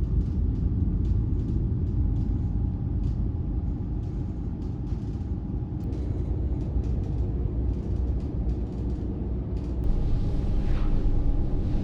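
Steady low rumble of the car ferry New Kunisaki's engines while under way, with faint scattered ticks, growing a little louder about ten seconds in.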